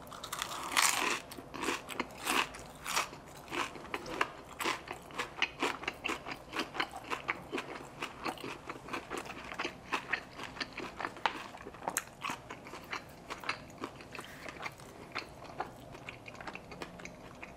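A person chewing crispy fried fish taco close to the microphone, with a few wet, crunchy chews a second. The chewing is strongest in the first few seconds and thins out near the end.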